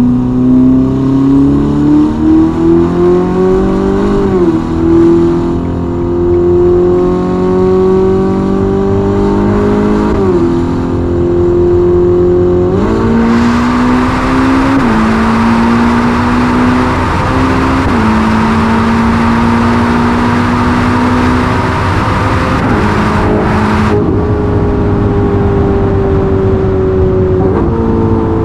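Ferrari SF90's twin-turbo V8 with a Novitec sport exhaust pulling hard, its note rising through the gears with quick upshifts about four and ten seconds in. It then holds a fairly steady high-speed note, with a loud hiss laid over it from about a third of the way in until a little past two-thirds.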